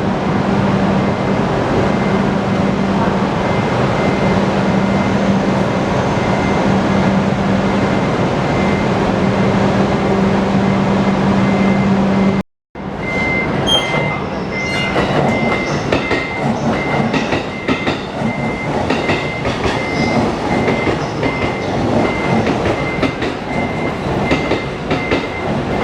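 Train noise on a station platform: a train running with a steady hum. A moment of silence about halfway through is where the video cuts to another train, heard with wheel clatter and a repeating high beep.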